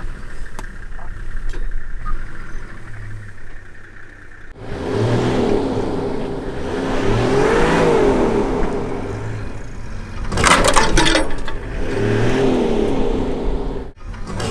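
Safari 4x4 engines revving hard while a stuck vehicle is towed out of deep mud. The engines run lower at first, then turn suddenly louder with rising and falling revs about four and a half seconds in, and a clatter of knocks comes near ten seconds.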